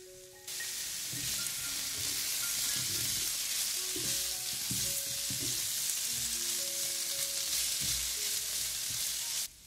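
Sliced onions and carrots sizzling in oil in a frying pan, stirred with a silicone spatula that gives soft knocks against the pan. The sizzle starts about half a second in and cuts off just before the end.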